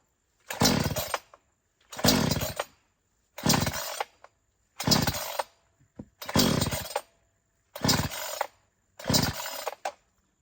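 Recoil starter of a two-stroke chainsaw being pulled over and over with the choke on, seven pulls about a second and a half apart, each a short rasping whir that dies away; the engine does not catch.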